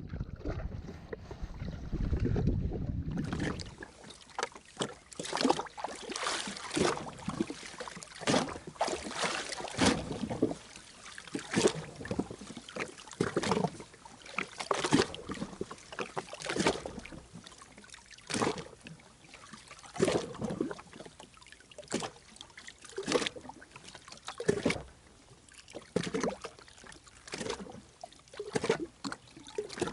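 Low wind rumble on the microphone for the first few seconds, cut off abruptly. Then water splashing against the jet ski's hull in separate washes, about one every second or so.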